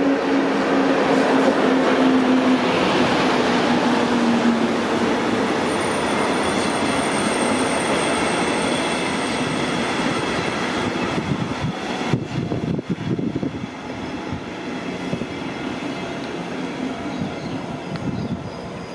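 An electric train passing at close range, loud and steady. A falling whine runs through the first few seconds, a thin high squeal follows from about six seconds in, and there is a spell of rattling knocks past the middle before the noise eases.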